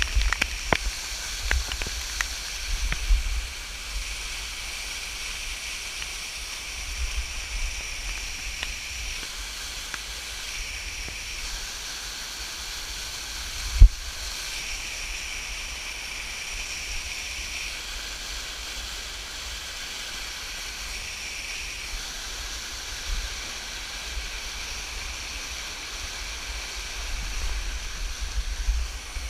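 Steady rush of a waterfall, with a few sharp clicks and knocks in the first three seconds and one loud thump about fourteen seconds in.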